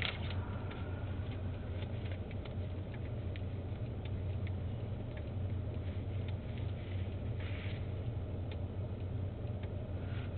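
A steady low vehicle engine hum, with scattered light clicks and crackles over it and a short rustling noise about seven seconds in.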